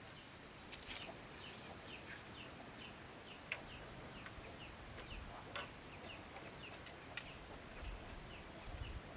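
Faint countryside ambience of insect and bird calls. A high, even trill of about a second repeats roughly every second and a half, with short falling chirps several times a second between.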